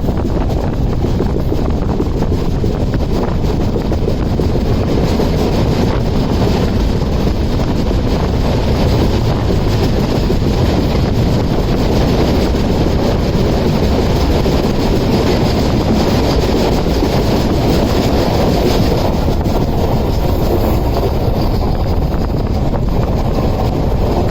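Passenger train running at speed: a steady rush of wheel and track noise, with wind buffeting the microphone.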